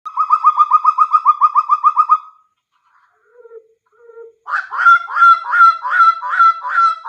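Butcherbird calling: a fast run of about fifteen short, even notes, a pause with two soft low notes, then a louder series of about eight falling, honking notes.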